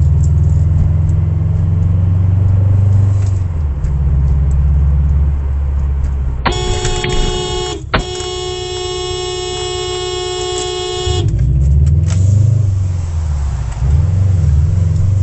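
Car engine running steadily, then a car horn held for about a second, a brief break, and held again for about three seconds. After the horn the engine goes on, its pitch rising and falling.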